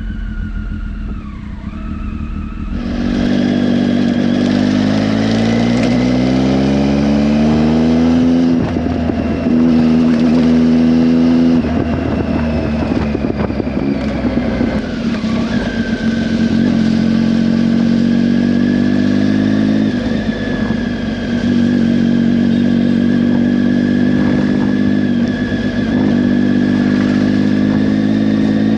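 Motorcycle engine pulling away with its pitch rising steadily, dropping with a gear change, then running at a steady cruising pitch.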